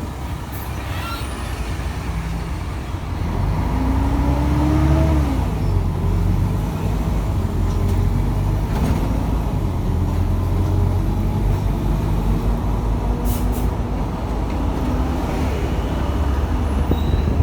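Mercedes-Benz O500UA articulated bus's Bluetec 5 diesel engine running, then building up under load about three seconds in with a brief rising-then-falling whine as the bus pulls away, and carrying on at a steady working drone.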